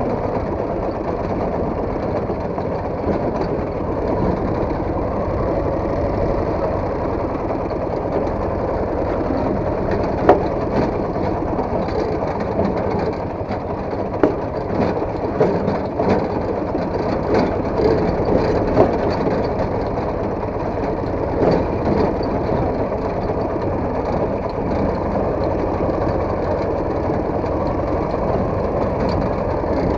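Motorcycle engine running steadily, with a few sharp knocks in the middle stretch.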